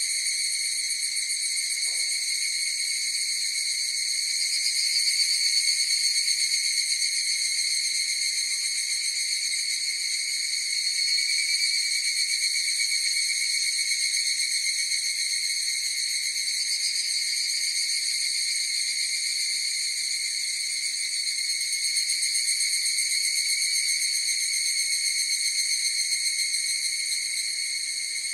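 A chorus of higurashi (evening cicadas, Tanna japonensis) calling without a break: a steady, high, shrill ringing that swells a little now and then.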